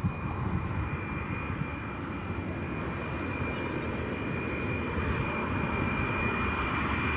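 Aircraft engines running: a low rumble with a steady high whine, slowly getting louder.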